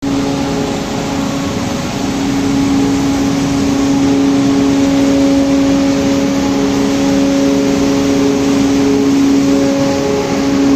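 A machine running steadily: a constant low hum with a hiss over it.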